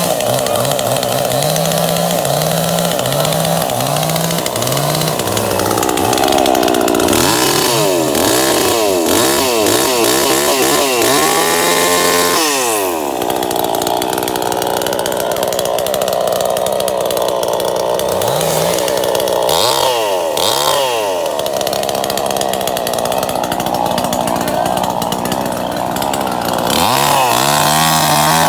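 Engine running hard and revving, its pitch repeatedly rising and falling.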